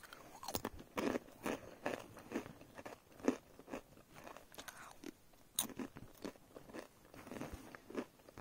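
A person chewing a crunchy snack close to the microphone, with a crunch about every half second.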